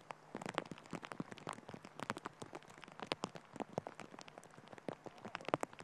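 Heavy rain falling, with many separate drops striking close by in an irregular, dense patter that starts about a third of a second in.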